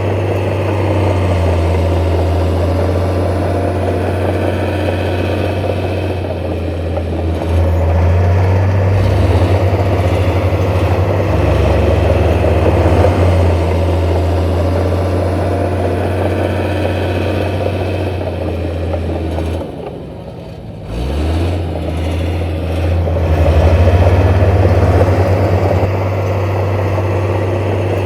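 Heavy diesel construction machine engine running steadily with a deep, low drone. About twenty seconds in it briefly drops off, then picks back up.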